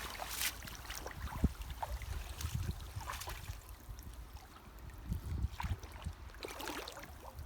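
Creek water splashing and sloshing at irregular moments as people wade in a shallow stream handling a seine net, over a steady low rumble.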